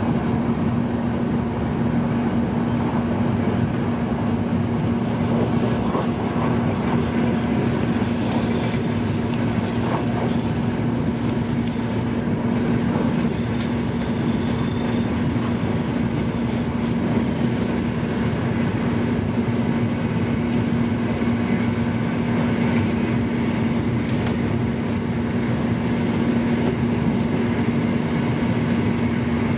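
High-speed train running at speed, heard from inside the passenger car: a steady rumble with a constant low hum and a few faint clicks.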